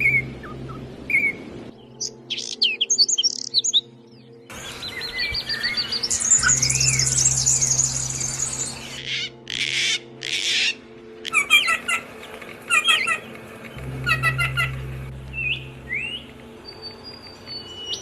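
Small songbirds chirping and calling, with a fast, high trill of song in the middle; the sound changes abruptly several times.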